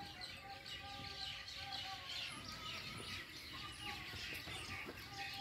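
Many small birds chirping and twittering without a break, over a faint steady tone.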